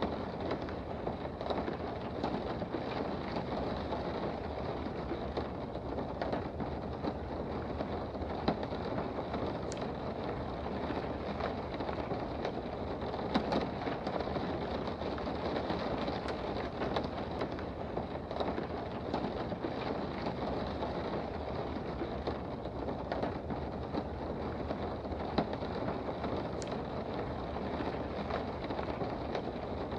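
Steady rain heard from indoors: an even hiss, with scattered sharper ticks of single drops.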